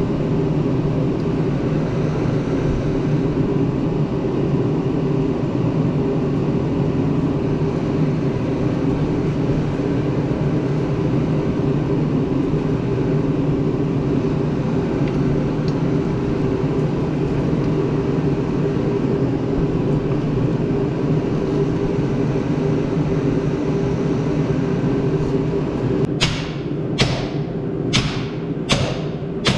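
An engine running steadily at a constant speed. About four seconds before the end, a run of sharp knocks starts over it, roughly one a second.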